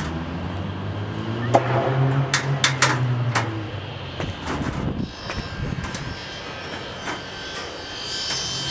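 A low engine hum that swells and fades over the first four seconds, like a vehicle passing, with a quick run of sharp knocks in the middle.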